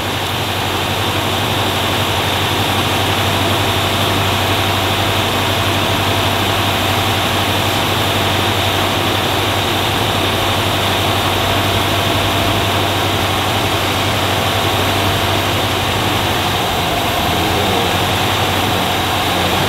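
Rover P6's engine idling steadily while its carburettor mixture is being adjusted; it is still running a bit lean.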